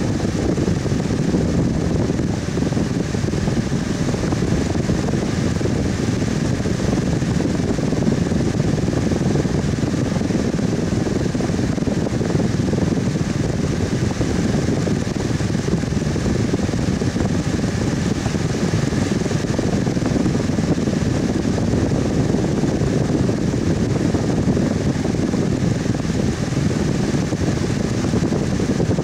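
Electric fan running steadily, a constant low whooshing air noise with a faint higher hum above it.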